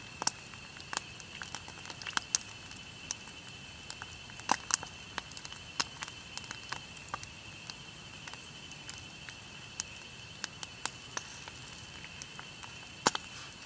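Eel pieces frying in hot oil, popping and spitting in sharp, irregular cracks, some of them loud, over a steady high-pitched whine.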